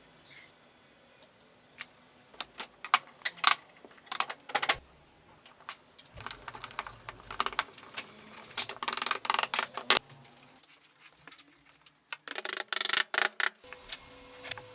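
Irregular sharp taps and knocks from woodworking, with bursts of quick rattling clatter in the middle and again near the end.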